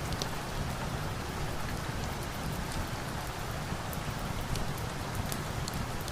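Steady rain, with scattered light, sharp crackles from a log fire on top.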